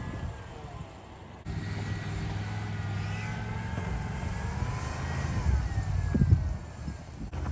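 Plow truck engine running under load while plowing snow, with a whine that rises and falls over it. A few heavy thumps come near the end.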